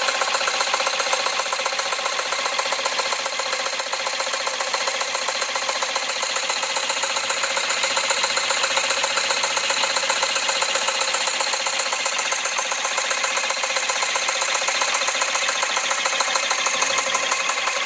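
Jensen 20G model steam engine running steadily on live steam: a fast, even run of exhaust beats over a constant hiss.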